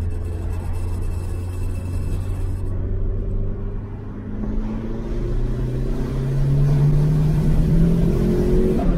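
VW Lupo's swapped-in 1.8T turbocharged four-cylinder, heard from inside the cabin: a steady drone, then from about halfway the engine pulls hard under full acceleration in second gear, its note rising and growing louder toward the end.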